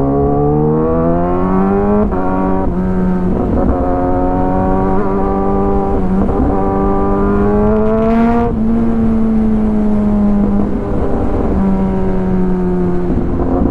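Kawasaki ZX-10R inline-four with an Arrow full-system exhaust running under way. Its pitch climbs over the first two seconds, then holds fairly steady, with a few small drops and steps.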